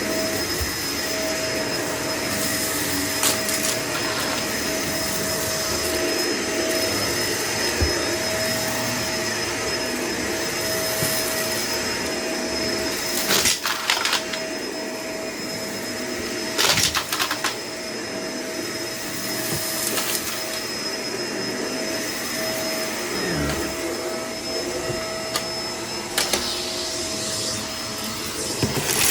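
Vacuum cleaner running steadily with a constant motor whine, with short clattering bursts three times, about halfway through, a few seconds later and at the end, as debris is sucked up during a mess pickup test.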